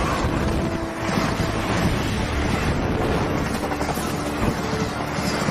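Train passing close by: a steady loud rumble and rush of rolling wheels and air, with wind buffeting the microphone.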